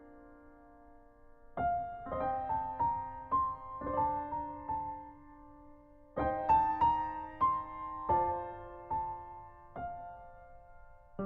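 Background piano music: a gentle melody of single struck notes over sustained chords, starting after a brief pause in the first second and a half, with a second phrase beginning about six seconds in.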